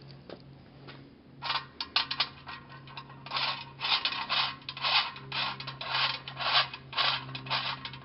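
Repeated scraping or rasping strokes, roughly two a second, growing louder after the first couple of seconds, over a steady low hum.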